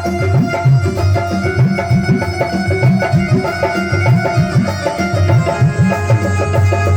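Instrumental interlude of Indian devotional music: rapid tabla strokes with bending low bayan tones over a steady melodic accompaniment.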